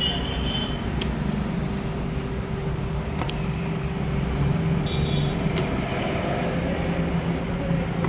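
Steady motor-vehicle noise, a low drone with a constant tone in it, broken by a few sharp clicks.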